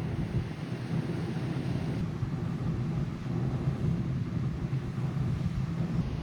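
Steady low engine rumble of a large car ferry, with wind buffeting the microphone.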